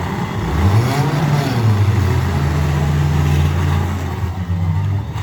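Demolition derby car engines revving hard, the pitch climbing about half a second in and then held high.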